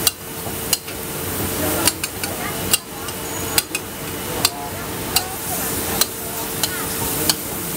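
Food frying in oil on a street-stall griddle with a steady sizzle, broken by sharp metallic taps about once a second.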